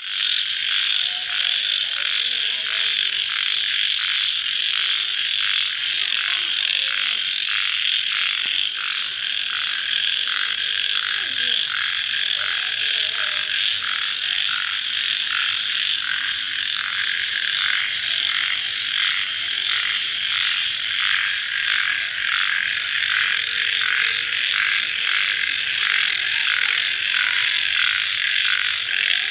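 A dense chorus of crickets chirping, high-pitched and continuous, with a regular pulse about twice a second.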